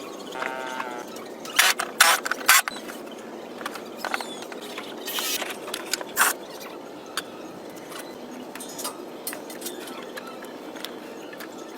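Workshop handling of metal parts: scattered sharp clicks and knocks, loudest about two seconds in, with a short squeak just after the start.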